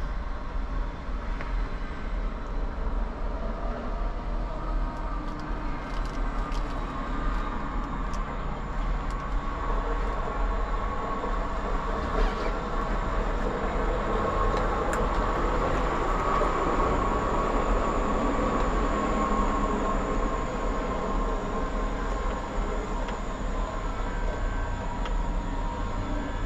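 Dump truck's diesel engine running steadily, a low rumble with a faint whine on top, growing a little louder around the middle.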